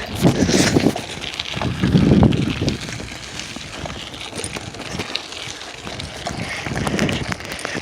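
Wind gusting on the microphone, with low rumbling swells and scattered clicks and rustles.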